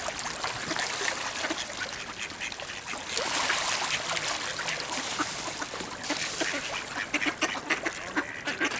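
A flock of ducks quacking, many short calls overlapping one another over a steady hiss.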